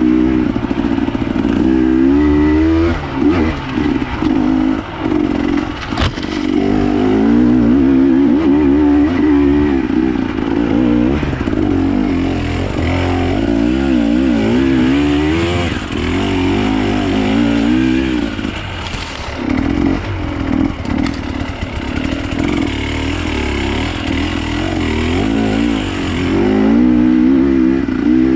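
Enduro dirt bike engine revving up and down over and over as it is ridden, its pitch wavering constantly.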